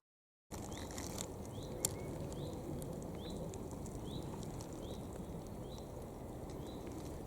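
Chaffinch giving its rising 'hweet' alarm call over and over, about once every two-thirds of a second, over steady wind noise, after a half-second gap of silence. A single sharp click about two seconds in.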